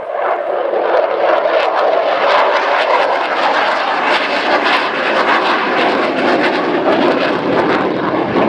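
F-16C Fighting Falcon's Pratt & Whitney jet engine passing by in a loud, rough roar with crackling, building over the first second and then holding steady.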